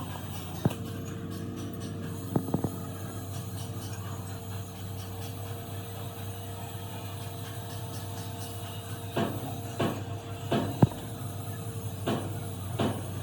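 Workshop sounds during compressor repair: a steady low hum with a faint held tone, and scattered sharp knocks of tools or parts, a pair about two and a half seconds in and several close together in the last few seconds.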